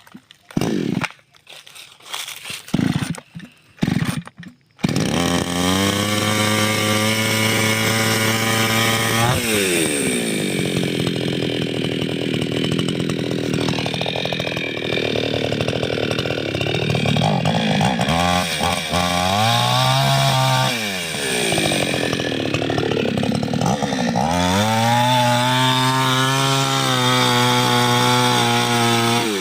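Two-stroke chainsaw that starts suddenly about five seconds in after a few short irregular sounds, then runs at high speed. Its pitch drops and picks up again several times.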